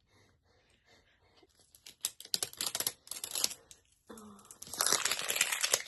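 Plastic toy-package wrapper being crinkled and torn open: a run of quick crinkles about two seconds in, then a denser stretch of tearing near the end.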